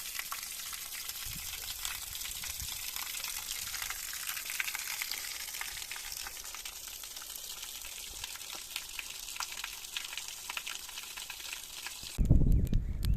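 Food sizzling and crackling: a steady hiss with scattered pops. Near the end it gives way abruptly to a loud low rumble.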